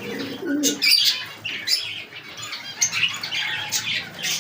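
Caged birds chirping and calling, many overlapping short calls at once.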